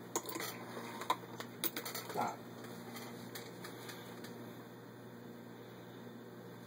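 Singer 221-1 Featherweight sewing machine stitching slowly through six layers of denim, with a few irregular ticks from the needle and mechanism in the first two seconds, then only a steady low hum.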